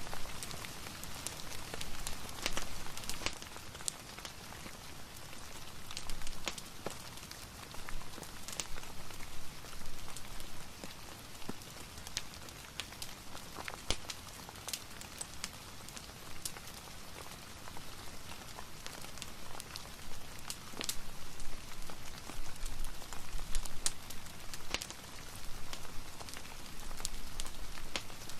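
Steady rain hiss mixed with a crackling fireplace fire, with scattered sharp pops and snaps at irregular moments.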